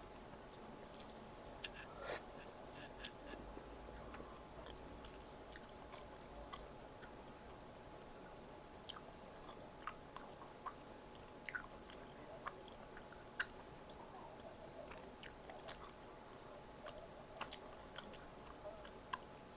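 A person chewing food close to the microphone: irregular small wet clicks and smacks from the mouth, with one sharper click near the end.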